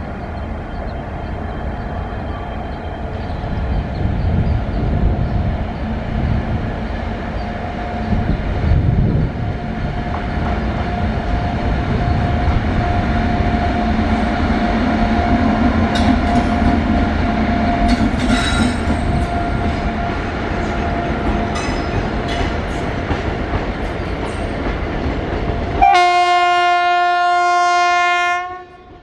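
A passing Indian Railways train: heavy rumble of wheels on the track with a steady whine over it. Near the end the rumble cuts out and a locomotive horn sounds one long blast of a couple of seconds, then stops suddenly.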